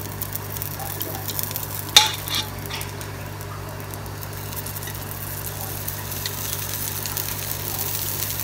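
Oil sizzling on a dosa on a hot cast-iron griddle as it is brushed over with a silicone brush, the sizzle growing louder near the end. A sharp clink about two seconds in.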